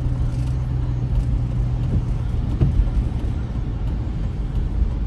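Steady engine and road noise inside a moving car, with a constant low hum and a brief thump about two and a half seconds in.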